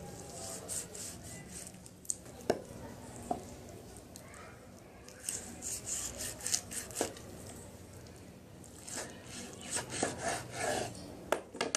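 Hands stripping fresh molokhia (jute mallow) leaves off their stems, giving crisp rustling in three short spells with a few sharp clicks between.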